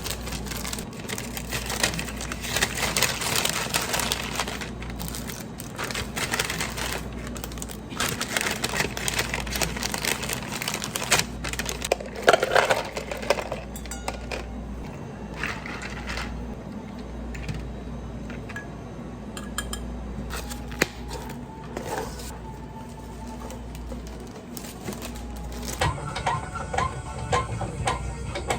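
Clinking and clattering of dishes and utensils over a steady low hum, with soft background music coming in near the end.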